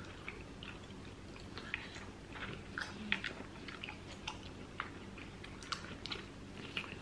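Close-up chewing of food, with many small wet mouth clicks and smacks scattered irregularly.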